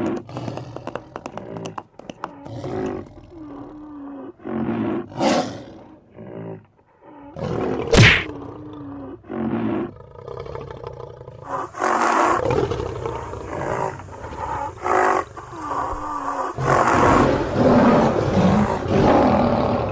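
Lion roars, recorded or from a toy, coming in separate bursts, with a sharp crack about eight seconds in. From about twelve seconds the roaring becomes a denser, near-continuous stretch.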